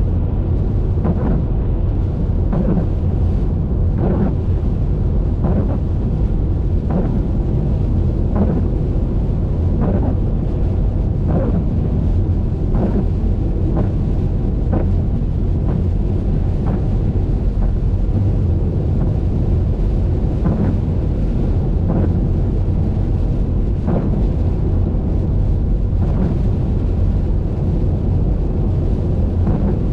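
Car driving on a highway in the rain: a loud, steady low rumble of road and wind noise, with a short swish repeating about every one and a half seconds.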